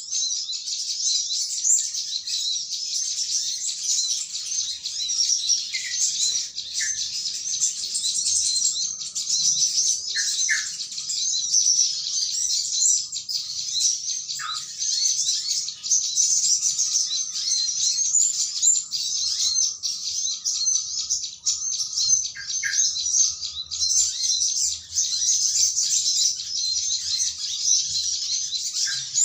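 Dense, unbroken high-pitched chirping of a noisy flock of small songbirds, with a few short, lower, falling call notes scattered through it. This is a bird-trapping lure call mixing small-bird chatter with yellow-vented bulbul (terucukan) calls.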